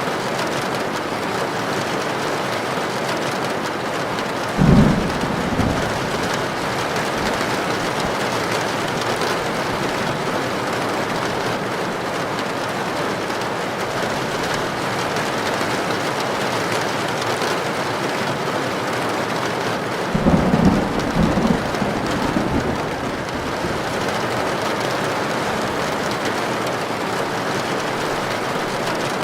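Heavy rain falling steadily on a tin roof, with short low thunder rumbles about five seconds in and again about twenty seconds in.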